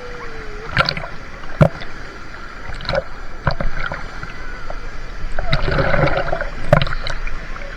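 Water splashing and sloshing, with scattered sharp slaps and clicks and a busier patch of noise about six seconds in.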